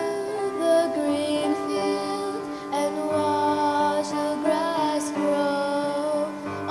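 Gentle song with a female singing voice over soft held accompaniment and a slow-changing bass.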